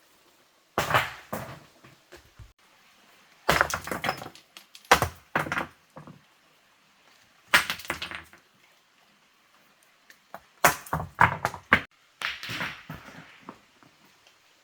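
Irregular clusters of sharp knocks and thuds, several quick hits in each group, with pauses of a second or two between the groups.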